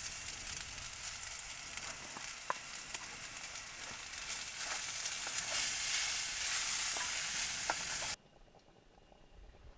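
Khichdi ingredients frying in hot oil in a pot: a steady sizzle with scattered pops. It grows louder about halfway through and cuts off abruptly near the end.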